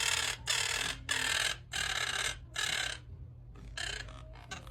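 Pet birds calling loudly: about five harsh calls of roughly half a second each in quick succession, then a few shorter, fainter calls near the end.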